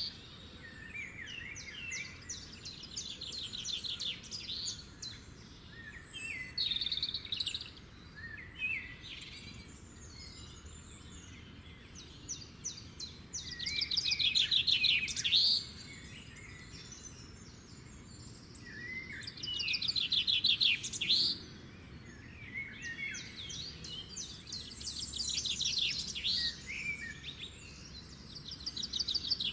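Songbirds singing: bouts of fast trills, chirps and short sliding whistles, loudest about halfway through and again about two-thirds through.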